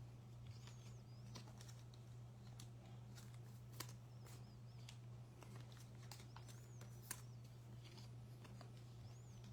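Near silence over a steady low hum, with scattered light clicks from trading cards and packs being handled, and a few faint high chirps.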